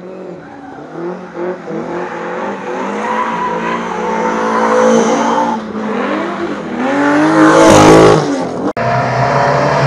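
Rally car's engine revving hard as it accelerates up through a bend toward the microphone, its pitch climbing and dropping back with each gear change, loudest as it passes close about eight seconds in.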